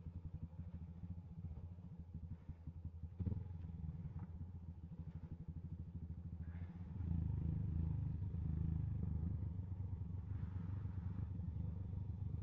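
Motorcycle engine running at low revs over a rough road, with one sharp knock about three seconds in. It gets louder from about seven seconds in.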